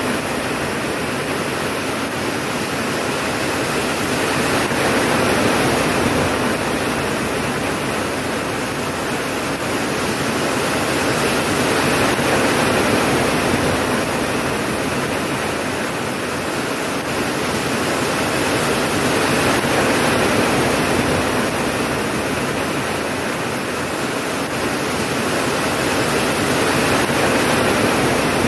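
Steady heavy rain, a dense even hiss that swells and eases gently about every seven seconds.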